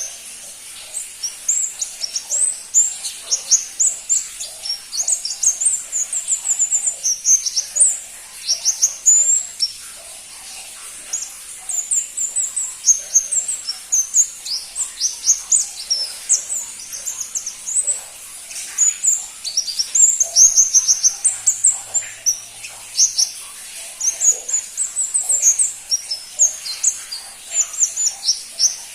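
Pentis pelangi flowerpecker singing: a fast, continuous string of high, thin chirps, mostly short falling notes, with brief pauses now and then.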